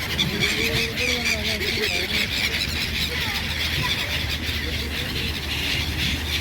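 Steady outdoor street ambience: a constant low hum and a high hiss, with faint distant voices or squeaks wavering over it.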